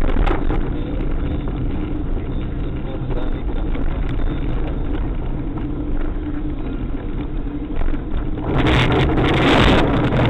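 Steady engine and road noise of a car on the move. About eight and a half seconds in, a loud rushing noise sets in and lasts about two seconds.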